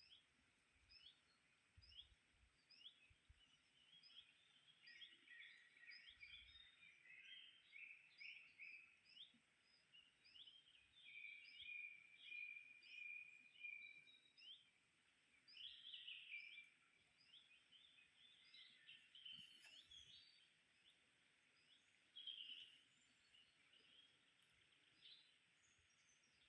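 Songbirds singing and calling in woodland: a high, short note repeated over and over, with other chirps and a sustained trill about halfway through. A few faint low thuds come through now and then.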